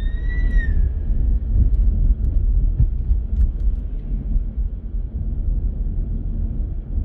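Steady low rumble of a car driving through city streets. An emergency-vehicle siren's rising wail fades out about a second in.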